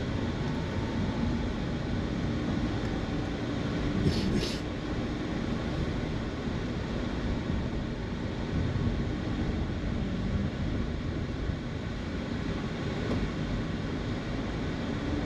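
Steady engine and road noise heard from inside a moving car, with a brief rustle about four seconds in.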